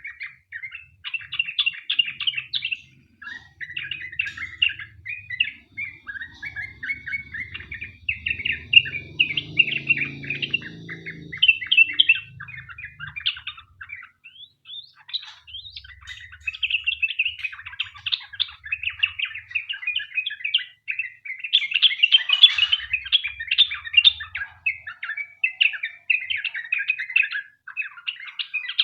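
Sooty-headed bulbul (trucukan) singing a long, rapid run of chattering, warbling phrases almost without pause, the 'ropel panjang' song used as a lure to get other bulbuls singing. A faint low rumble lies under the song for a few seconds in the first half.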